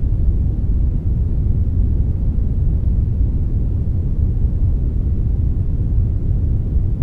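Steady synthetic brown noise blended with a little white noise: a deep, even rumble with most of its weight in the bass and only a faint hiss above.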